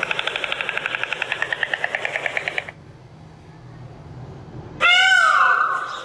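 White stork bill-clattering: a fast, even rattle of about ten clacks a second that stops abruptly after under three seconds. About five seconds in, an Indian peafowl (peacock) gives one loud call that rises then falls in pitch.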